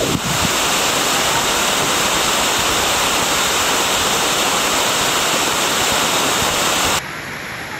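Waterfall rushing loudly and steadily, dropping abruptly to a quieter rush about seven seconds in.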